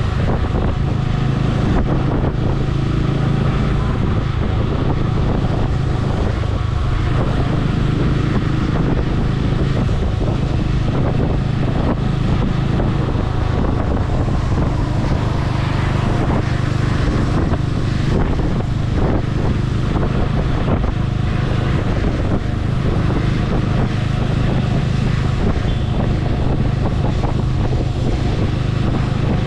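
Motorcycle engine running steadily at a constant cruising pace, with heavy wind noise on the microphone.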